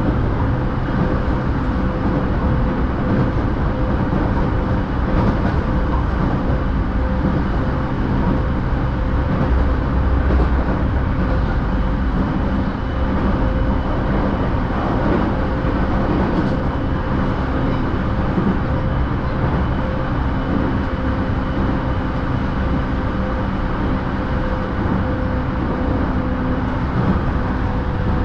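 JR Chūō-Sōbu Line local commuter train running at steady speed, heard from inside the carriage: an even rumble of the wheels on the rails with a steady hum over it.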